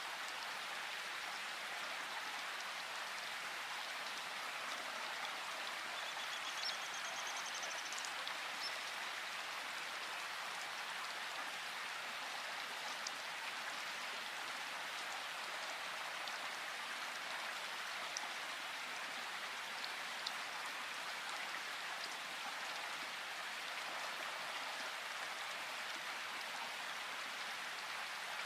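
Steady rain falling in a forest, an even hiss of drops. A short, high, rapid bird trill sounds about six seconds in.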